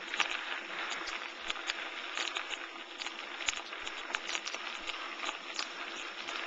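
Bicycle tyres rolling along a trail, a steady crunching hiss with many small irregular ticks and crackles from the surface under the wheels.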